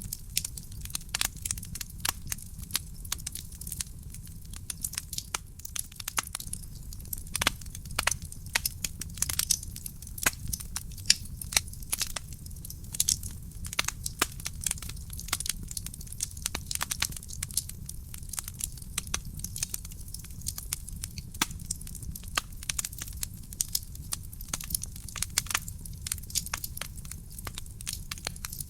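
Wood fire burning in a fireplace: a steady low rumble of the flames with irregular sharp crackles and pops from the burning logs throughout.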